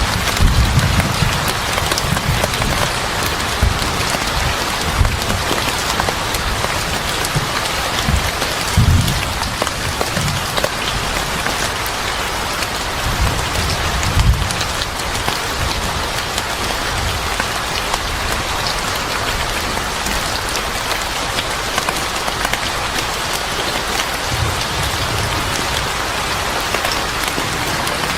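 Steady heavy rain with fine scattered drop patter, broken by a few short low rumbles near the start and at about 9, 14 and 25 seconds.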